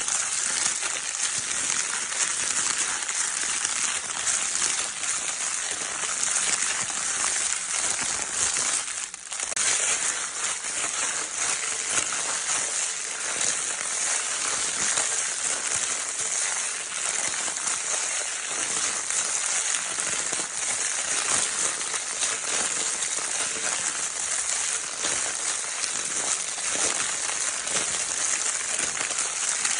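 Continuous dense crinkling of a baby's crinkle paper toy, a steady stream of small crackles with a brief dip about nine seconds in.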